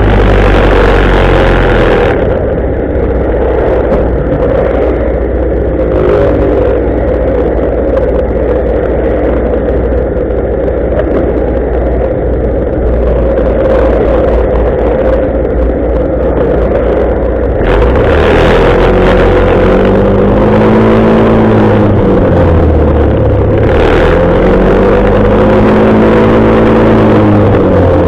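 Motorcycle engine running under way with heavy wind noise on the microphone. The wind hiss eases off for most of the first half, and in the last third the engine pitch rises and falls several times as it accelerates and shifts.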